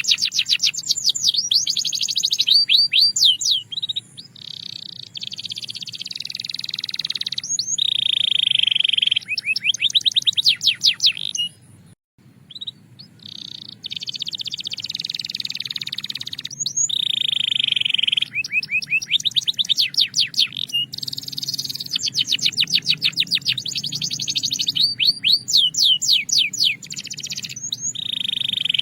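Belgian canary singing a continuous song of fast trills alternating with held, even rolls, with a brief break about twelve seconds in.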